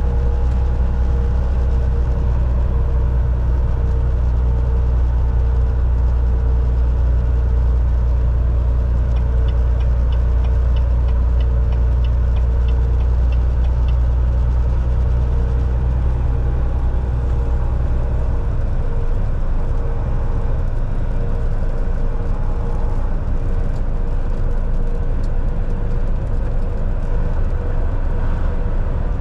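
Volvo VNL 760 semi truck's diesel engine droning steadily with road noise, heard from inside the cab. The low engine drone eases down about two-thirds of the way through, and a light regular ticking runs for a few seconds near the middle.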